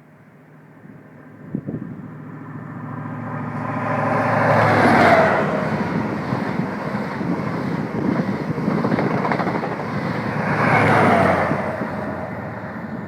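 A train passing at speed: its engine note and rail noise build up, peak twice about six seconds apart with a falling pitch at each peak, then fade away.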